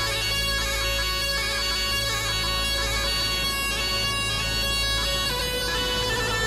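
Tulum, the Black Sea bagpipe, playing a folk melody over long held notes as background music.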